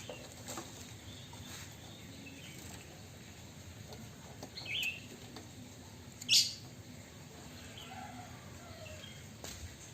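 Chinese hwamei giving a few short, separate calls: a brief chirp just before the middle, a sharper, louder call a little past the middle, and a few soft calls after it.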